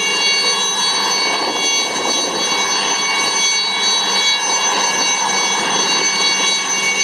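IAR-316B Alouette III helicopter's Turbomeca Artouste turboshaft engine running steadily: a high turbine whine of several steady tones over an even rushing noise.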